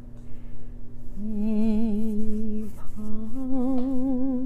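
A woman singing softly in Chinese, holding long notes with vibrato: one phrase about a second in, a short break, then another held note.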